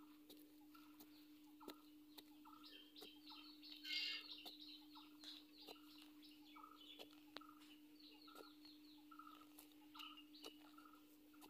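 Faint bird calls, short notes repeating about twice a second with one louder call about four seconds in. Under them come light knocks and scrapes of a pointed stick digging into dry, clumpy soil, over a steady hum.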